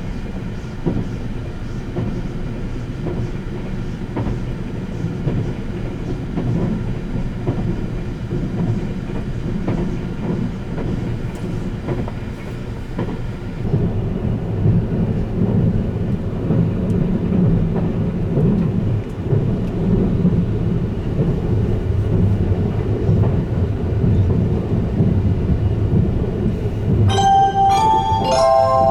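Running noise of the Sunrise Express's 285-series sleeper train heard from inside the car: a steady rumble of wheels on rails, growing louder about halfway through. Near the end an on-board chime of several notes starts, the signal for an announcement.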